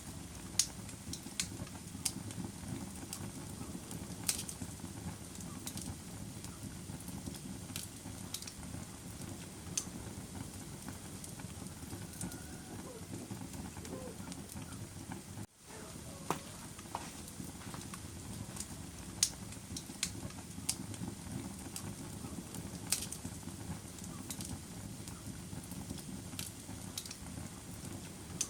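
Wood fire burning in a fireplace: a steady low rumble with scattered sharp crackles and pops. The sound cuts out for an instant about halfway through.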